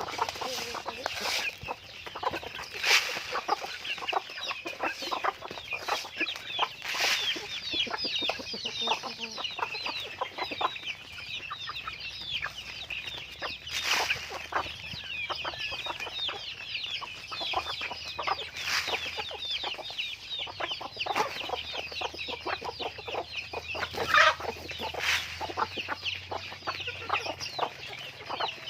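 A flock of chickens calling: a constant chatter of short, high, falling calls, with louder clucks and calls standing out every few seconds.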